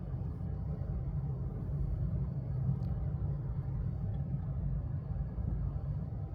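Steady low rumble of a vehicle in motion, with no distinct knocks or changes.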